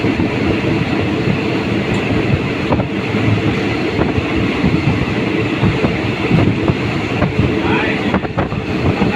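Train running along the track: a steady, loud noise of wheels on rail with a few faint clicks.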